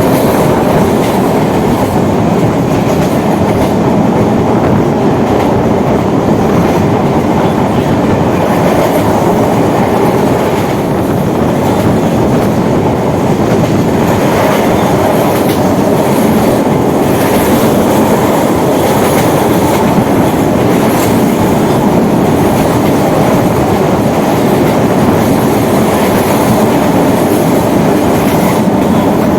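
Onboard sound of an EMU suburban local train running at speed: a loud, steady rush of wheels on rail, with irregular clacks from the track.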